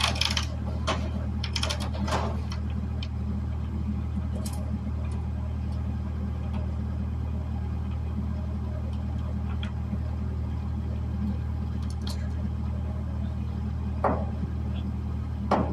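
A steady low mechanical hum with scattered short knocks and clanks, the loudest right at the start and near the end.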